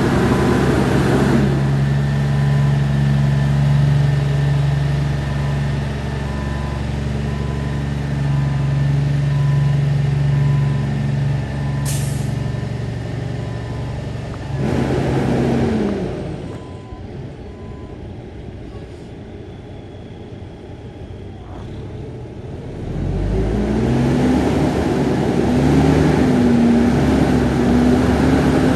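Diesel engine of a 2003 International 9400i truck tractor running steadily, with a short, sharp air hiss about twelve seconds in. The engine is revved briefly, goes quieter for several seconds, then is revved again with its pitch rising and falling. A faint, evenly repeating beep sounds through the first half.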